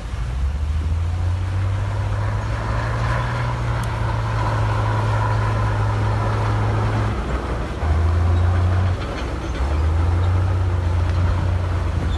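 Heavy diesel engine of earthmoving machinery running with a low, steady drone that shifts in pitch and level a few times, louder for about a second around eight seconds in, over a noisy wash of mechanical clatter.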